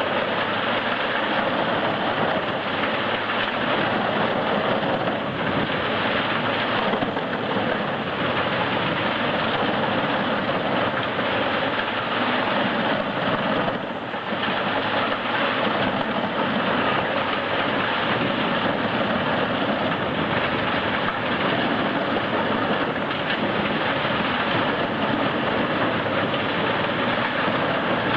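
Large forestry wood chipper running steadily under load, a dense, unbroken mechanical din of engine and chipping drum.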